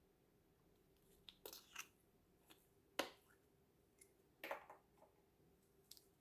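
Slime being squished and pressed by hand: a few short, sharp squelches and pops spaced a second or so apart, with quiet between them.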